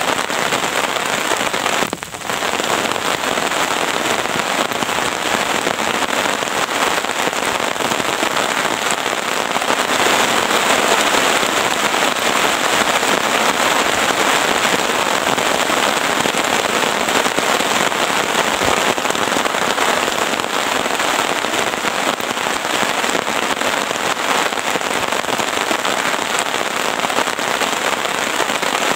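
Heavy rain falling steadily, a dense patter of drops. It dips briefly about two seconds in and grows a little louder about ten seconds in.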